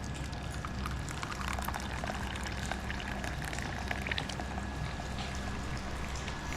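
Water trickling and dripping: a dense patter of many small splashes over a steady low hum.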